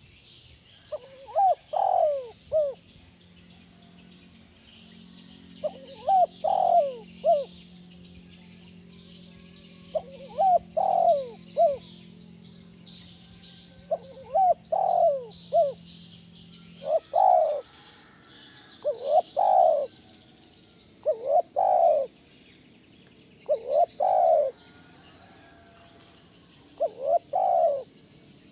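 Spotted dove (tekukur) cooing: about nine repeated phrases of a few short notes, one every two to four seconds, with faint insects buzzing behind. A low steady hum underneath stops about two-thirds of the way through.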